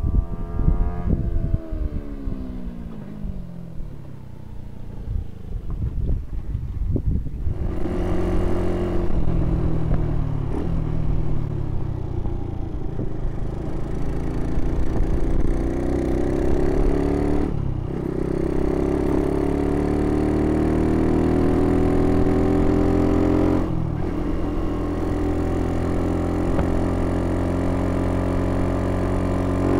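Exhaust of a Honda ST70 Dax's small four-stroke single, enlarged past 100 cc, passing by and falling away in pitch. It is then heard from on the bike accelerating, its pitch climbing with two short breaks where it shifts up.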